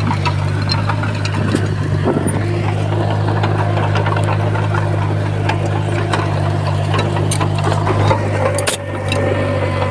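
Komatsu bulldozer's diesel engine running steadily, with scattered clicks and knocks over it and a brief break in the sound near the end.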